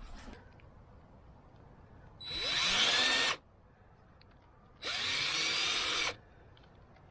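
Power drill running in two bursts of about a second each, its motor speeding up at the start of each burst.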